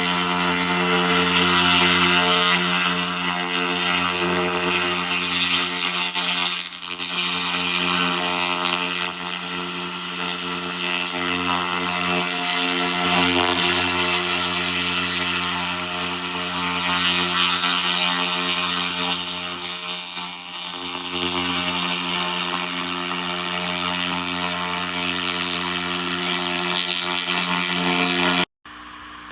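A 2000 W laser rust remover at work on metal: a steady, fluctuating hiss from the laser burning off rust over a constant machine hum. The sound cuts out abruptly near the end.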